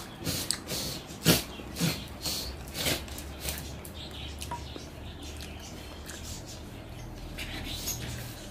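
Close-up eating sounds: a person chewing rice and chicken curry with several wet lip-smacks and mouth clicks in the first three seconds, then softer squelching as fingers mix rice into the curry on the plate.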